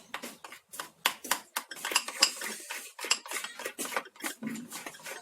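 A spoon clinking and scraping against a bowl in quick, irregular strokes, stirring cocoa into a portion of cake batter.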